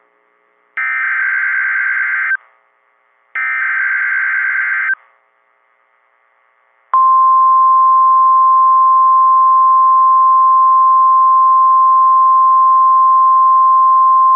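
NOAA Weather Radio emergency alert signal: two short warbling bursts of the digital SAME header data, about a second apart. After a pause of about two seconds comes the loud, steady single-pitch Warning Alarm Tone, which marks an alert (here a severe thunderstorm watch) about to be read.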